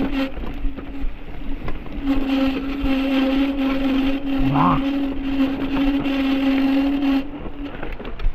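A motor running at a steady pitch with a rushing hiss over it. It dips about a second in and cuts off about seven seconds in.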